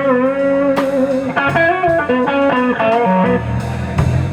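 Electric guitar playing a blues lead fill with bent notes between the sung lines, over a bass guitar.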